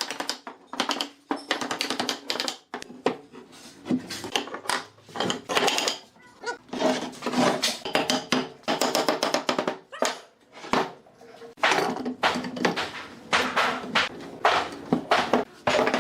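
Rapid, irregular clicks and knocks of hand work on wood or furniture parts, with background music.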